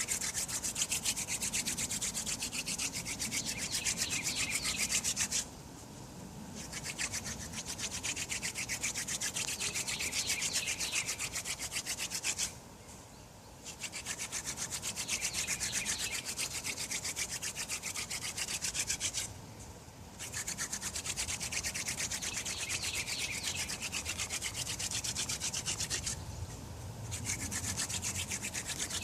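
Wooden hand-drill spindle spun back and forth between the palms in a notched hearth board: a fast, rasping wood-on-wood rub in bouts of about six seconds, broken four times by short pauses. The friction is still yielding brown dust rather than black char.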